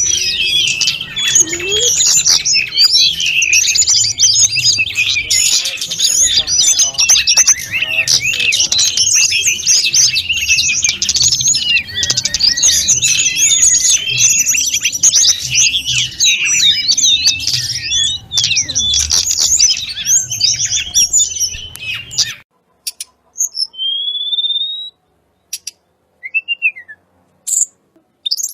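Tledekan gunung (sulingan gunung) songbird singing a dense, continuous stream of rapid, varied high-pitched twittering notes. The song cuts off abruptly about 22 seconds in and gives way to a few single clear whistles, one of them a rising slide.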